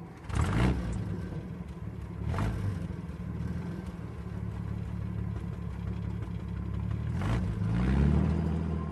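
Large vehicle engine running with a low, steady note, revving up briefly near the end, with three sharp knocks.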